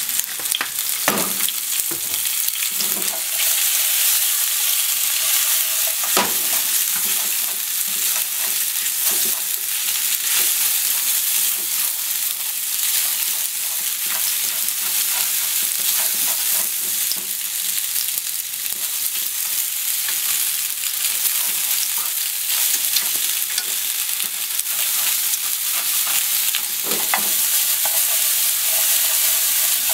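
Macaroni and sliced onion sizzling in oil in a frying pan while being stirred and tossed, with a steady sizzle and a few knocks of the utensil or food against the pan, a couple near the start and one near the end.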